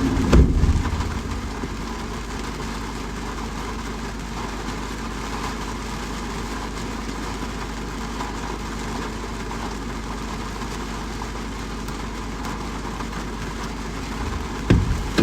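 Steady rain, an even hiss with a constant low rumble beneath it; a thump about half a second in and a couple more knocks near the end.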